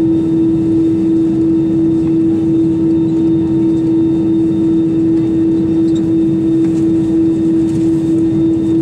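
Cabin noise inside an Airbus A320-200 airliner: a steady drone with one strong, unchanging hum.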